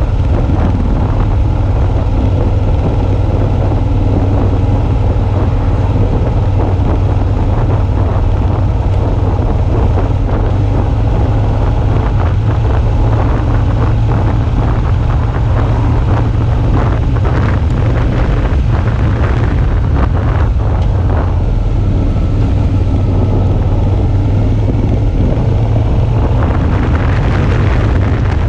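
Suzuki V-Strom 650's V-twin engine running steadily while riding, with wind noise on the microphone.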